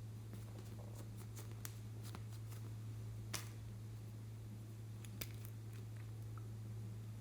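Clear slime being handled, giving scattered small clicks and pops, the sharpest about three seconds and five seconds in, over a steady low electrical hum.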